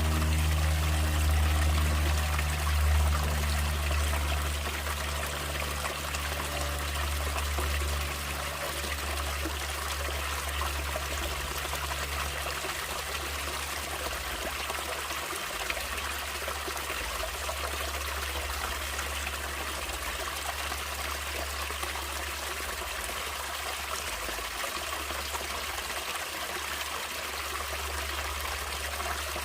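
Natural stream water flowing and trickling steadily, with a low rumble underneath. A few held low musical tones fade out over the first several seconds.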